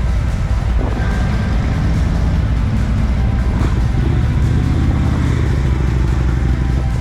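Motorcycle trike engine running on the road while riding, its pitch rising a little past the middle and easing back.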